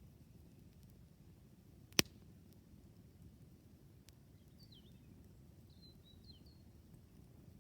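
Quiet campfire with one sharp pop from the burning wood about two seconds in and a fainter crackle a couple of seconds later. A small bird chirps a few short, quick notes in the background around the middle.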